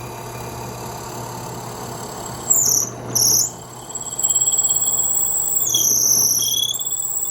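Harbor Freight benchtop drill press running with a steady hum. About two and a half seconds in, the bit starts cutting into a wooden dowel with a high-pitched squeal, first in two short spurts, then steadier from about four seconds in.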